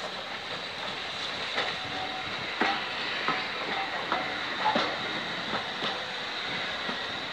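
Railway passenger coaches rolling past close by: wheels click over the rail joints at uneven intervals above a steady running noise.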